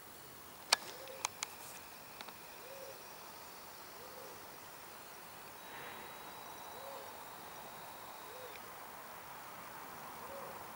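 A soft hooting call, a short rise-and-fall note repeated about every second and a half, with a few sharp clicks in the first couple of seconds.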